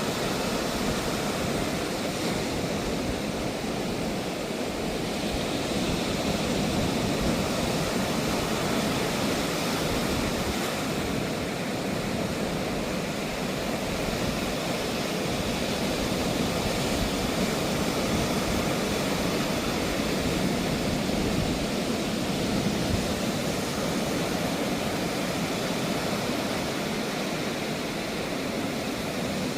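Ocean surf washing onto a sandy beach: a steady roar of breaking waves that swells and eases slowly.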